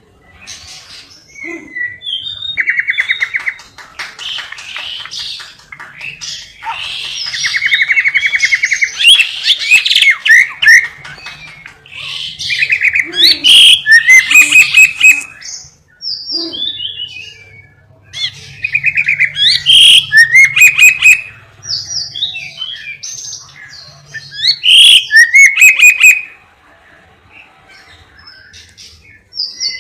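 Songbird singing loud phrases of rapid trills, buzzy rolls and sharp chirps, with short pauses between them. It is a masteran recording of the kind used to train caged birds' song.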